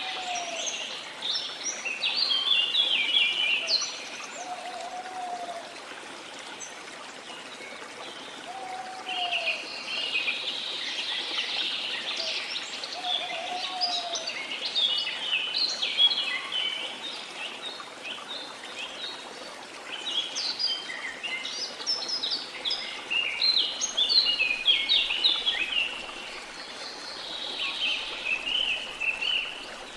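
Many small birds chirping and twittering continuously over a steady wash of sea water, with a short, lower slurred call repeated four times in the first half.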